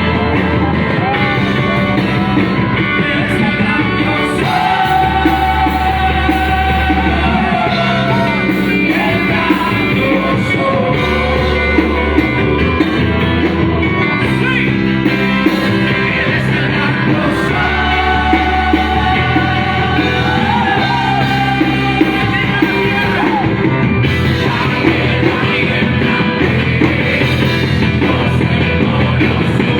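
A live Christian worship band playing a song with a drum kit, bass and sung vocals. Bass notes change every couple of seconds under a singing voice.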